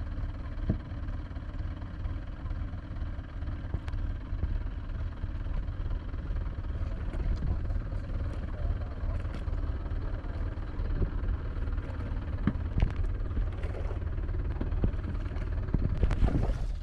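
Tractor diesel engine running with a steady low rumble, with a few short knocks over it.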